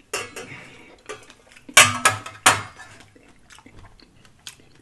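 Close-miked crunching of crisp tortilla chips being chewed: irregular sharp crackles, the loudest two about two and two and a half seconds in, trailing off into small clicks.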